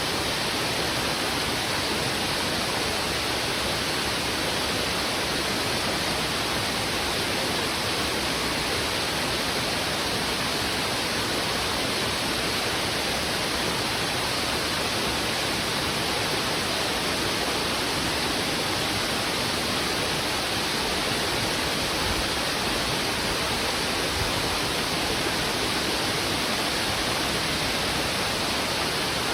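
Heavy river water rushing over rocks, a steady unbroken rush with no separate splashes or changes.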